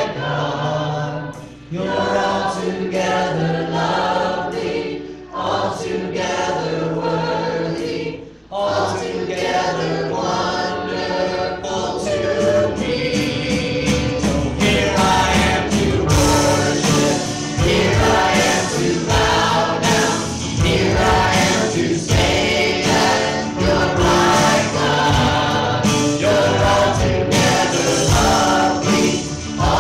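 A choir sings a Christian worship song with musical accompaniment. About halfway through, the music fills out and a steady beat comes in.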